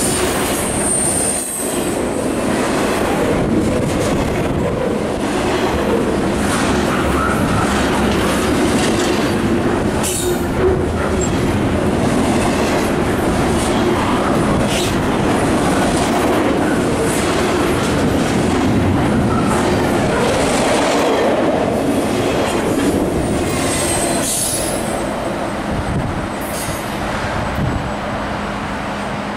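Train cars rolling past on the rails, with a steady clatter of wheels clicking over rail joints. A high-pitched wheel squeal comes in briefly near the start and again near the end, and the sound eases off over the last few seconds.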